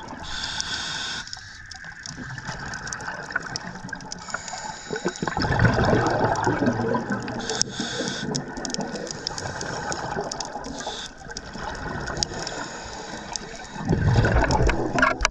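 Scuba breathing heard underwater through a regulator: a short hissing inhale, then a longer rush of exhaust bubbles, twice over.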